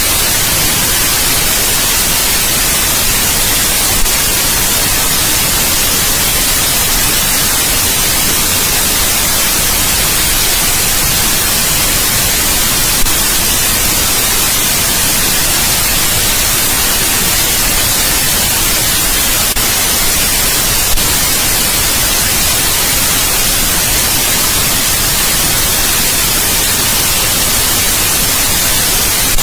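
Steady white noise: an even, unbroken hiss, strongest in the high frequencies, with three faint clicks along the way.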